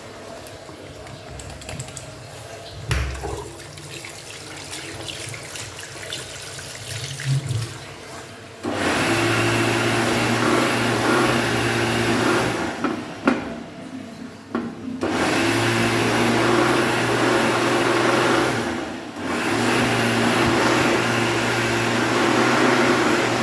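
Leventé hand dryer blowing with a loud, steady rush of air and a motor hum. It starts about a third of the way in, after a stretch of quieter washroom noise with a few thumps. It cuts out for about two seconds and then starts again, with a brief dip later on.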